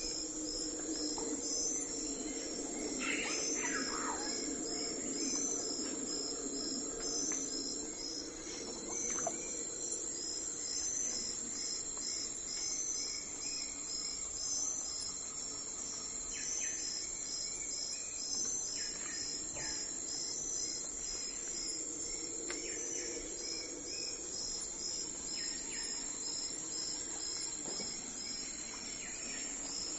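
Insects chirping in a steady, rapid pulsing rhythm over a continuous high whine, with a few short bird calls now and then. A low hum sits underneath for the first several seconds and again near the end.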